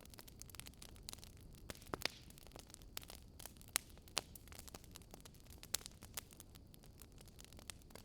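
Wood fire crackling and popping: irregular sharp snaps, a few louder than the rest, over a soft low rumble.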